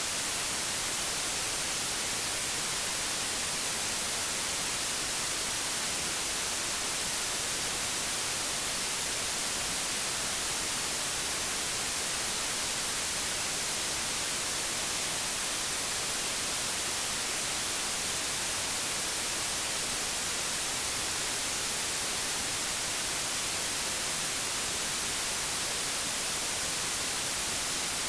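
Steady, unchanging hiss of analogue television static (white noise), brightest in the treble.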